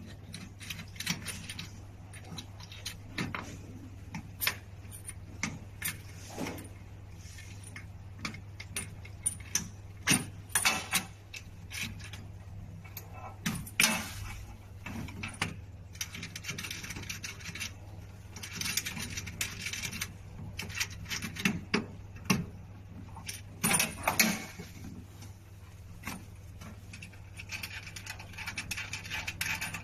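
Irregular clinks, taps and rattles of tools and small metal parts being handled while wiring is taken apart, with a few short rustling stretches and a steady low hum underneath.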